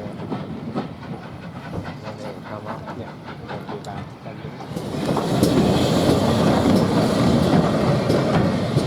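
A train running on the rails with rhythmic wheel clatter; about five seconds in it becomes suddenly much louder as it passes close by.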